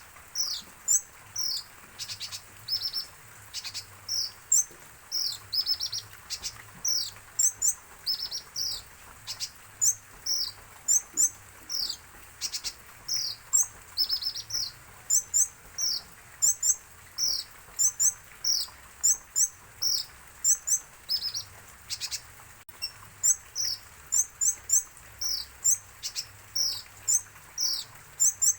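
A kolibri ninja (sunbird) chirping over and over in short, high, downward-sweeping notes, often in quick pairs or threes, a few times a second.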